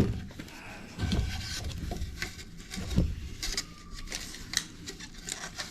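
Handling noise: a run of scattered light clicks and knocks, with a soft rattle now and then, as things are moved about by hand at the work site.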